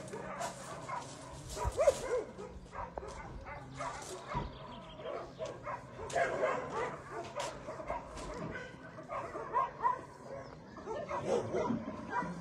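Several dogs barking and yipping over one another, with some whining mixed in.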